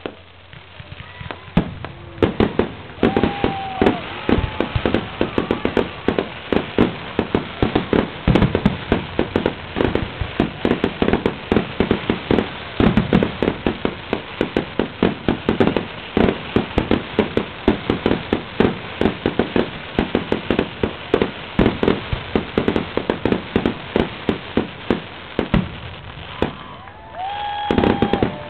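Aerial fireworks bursting in a rapid barrage, three or four bangs a second, starting about two seconds in and running on until near the end.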